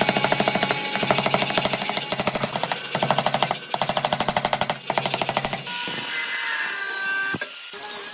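Power hammer pounding a hot billet of forge-welded razor blades with rapid, evenly spaced blows, pausing briefly twice. The blows stop about six seconds in, and a steady hiss with faint ringing tones follows.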